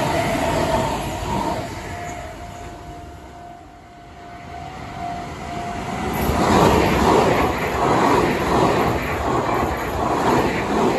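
Meitetsu electric trains: a train running past a Japanese level crossing while the crossing's warning bell rings. The bell fades away over the next few seconds. About six seconds in, a train passes close by with a loud, rhythmic clatter of its wheels over the rail joints, about two beats a second.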